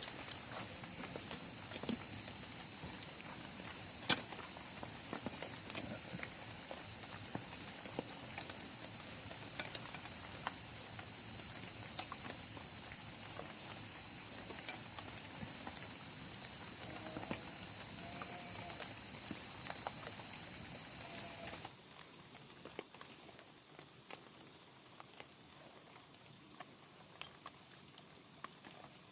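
A steady, high-pitched chorus of insects such as crickets, with scattered light ticks and taps. About three quarters of the way through, the sound drops off suddenly to a much quieter chorus.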